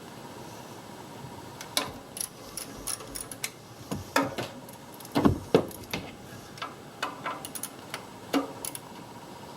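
Hand tools clicking and clinking on metal under the hood, irregular sharp clicks with a few louder knocks about five seconds in, as the bolts of the exhaust manifold heat shield are worked on.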